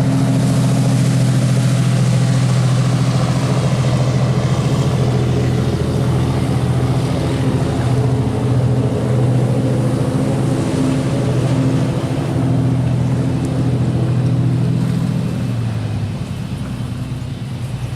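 A nearby engine running steadily at a low, even pitch, fading away about fifteen seconds in.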